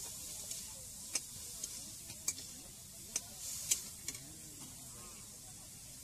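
Pork pieces sizzling as they fry in a black iron karahi, with a metal spatula stirring them. There are several sharp clicks in the first few seconds.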